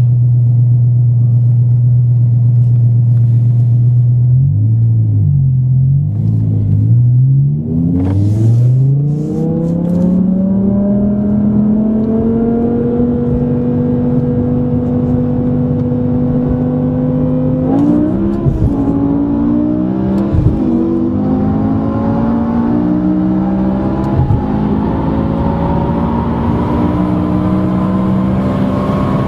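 Sports car V10 engine under way, its note steady at first with a few quick dips, then climbing in pitch as it accelerates and leveling off. Near the middle the note breaks twice with a sharp click and drops, then keeps slowly rising.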